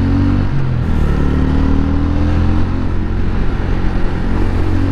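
TVS Ronin 225's single-cylinder engine running steadily with the bike under way, a low, bassy exhaust note.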